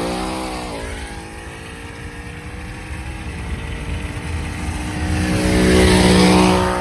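A performance car's engine revving and running: its pitch drops in the first second, holds steadier, then swells louder around five to six seconds in with a rising hiss before falling away near the end.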